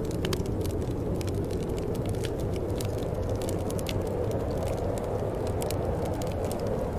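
Wood fire crackling in a fireplace: frequent small, irregular pops and snaps over a steady low rush of the burning.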